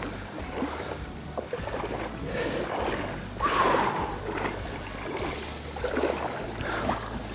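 River water sloshing and splashing around a wader's legs in irregular steps, with one louder splash about three and a half seconds in.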